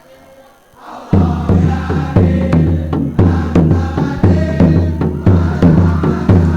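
Boys' choir singing with a heavy drum beat, coming in loudly about a second in and going on in a steady rhythm of about two beats a second.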